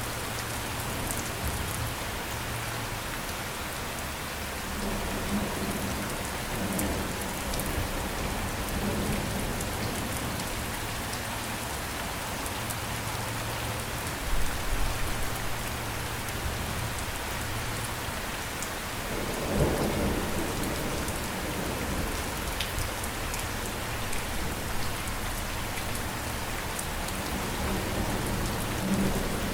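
Steady rainfall with a soft even hiss, broken by low rumbles of thunder about halfway through and again, more strongly, about two-thirds of the way in.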